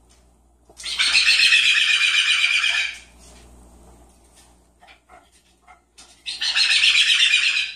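Pet parrot giving two harsh, rattling screeches, each about two seconds long, with a few faint clicks between them.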